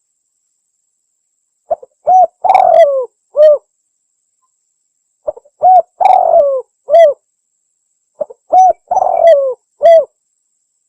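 Spotted dove (tekukur) singing its cooing song three times, about three seconds apart: each phrase is a short note, a coo, a longer coo that falls in pitch, and a final coo. The recording is clean, with silence between phrases.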